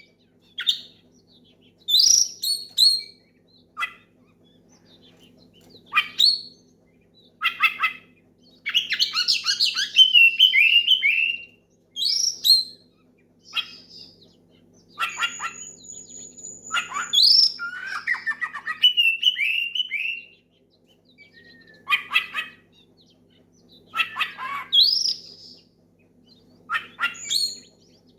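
Oriental magpie-robin singing loudly in separate phrases of whistles, chirps and quick falling notes, with short pauses between them: a territorial song calling out a rival. A faint steady low hum runs underneath.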